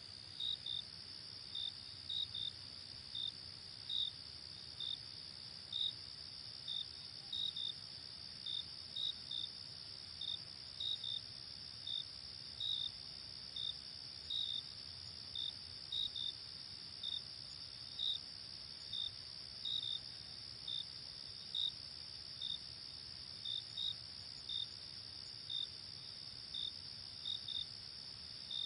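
Night crickets: a continuous high trill with short chirps over it, repeating at an uneven pace of roughly one or two a second.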